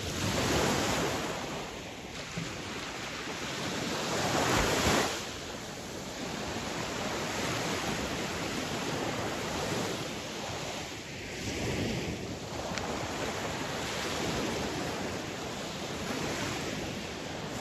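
Sea waves breaking and washing on a shore, the surf swelling and easing in irregular surges, with the strongest break about five seconds in. Some wind noise on the microphone.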